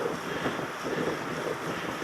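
Wind buffeting a helmet-mounted camera's microphone on a moving mountain bike, with an uneven rumble and rattle from the ride.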